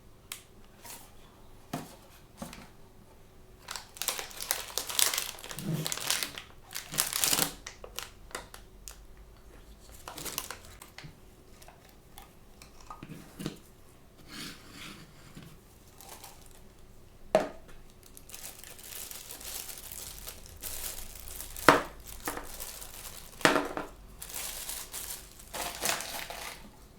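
Toy blind-bag packaging crinkling and tearing as it is opened by hand, in uneven spells of rustling. A few sharp clicks or snaps come through, the loudest about two-thirds of the way in.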